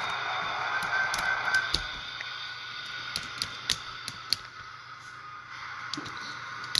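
Scattered sharp, light clicks and taps of small plastic parts being handled, about a dozen in all, with a steady hiss that fades away over the first two seconds.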